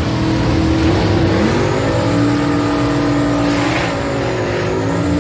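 Drag car engine running loud at the strip, its pitch climbing about a second and a half in, then holding steady before shifting again near the end.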